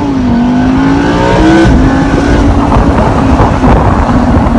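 Lamborghini Huracan Spyder's V10 engine accelerating: its note rises, drops sharply at an upshift about a second and a half in, then holds a lower, steady note.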